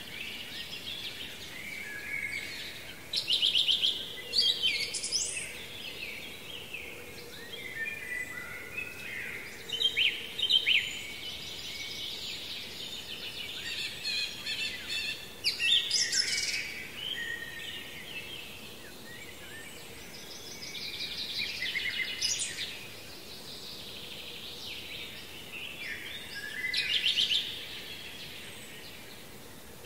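Songbirds singing in the open air, short phrases of song and chirps coming every few seconds, some of them fast trills, over a faint steady background of outdoor sound.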